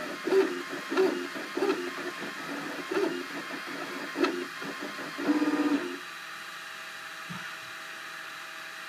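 Cubify 3D printer's stepper motors moving the print head in short whirring, pitched bursts, about one a second, with a longer burst about five seconds in. After that the printer settles into a steadier, quieter hum.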